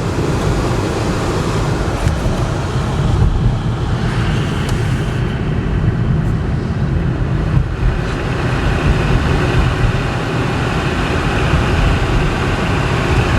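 Steady rushing noise inside a 2012 Chevy Impala's cabin: the air-conditioning blower running, blowing cold air, over the car's road and engine noise.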